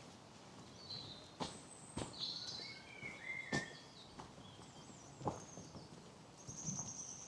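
Several woodland birds calling and singing, with short high whistles and chirps and a rapid high trill near the end. A few footsteps on a path fall in among them, mostly faint.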